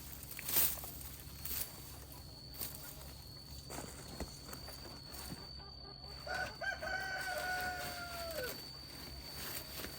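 A rooster crows once about six seconds in: one call of about two seconds that drops in pitch at its end. Scattered clicks and knocks, the loudest near the start, and a faint steady high tone run underneath.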